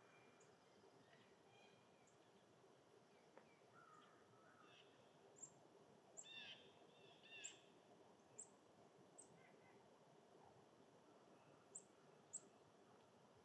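Small birds calling faintly: scattered short, sharp high chirps, with a brief cluster of lower call notes in the middle, over a steady background hiss.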